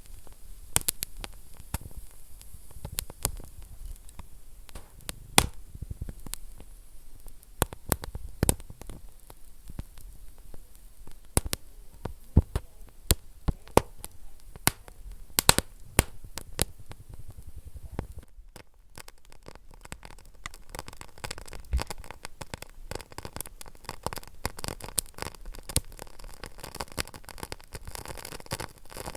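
Wood fire burning in a fireplace, crackling with frequent sharp pops and snaps over a low steady hiss. The pops thin out about two-thirds of the way through.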